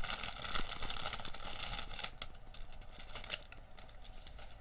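Small plastic bags of diamond-painting drills crinkling and rattling as they are handled and sorted. The crinkling is densest in the first couple of seconds, with scattered small clicks after that.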